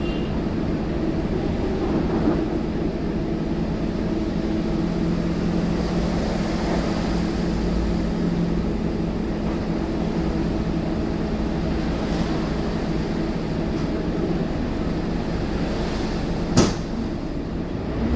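Scania K230UB single-deck bus's diesel engine running steadily while the bus is under way, with a single sharp knock near the end.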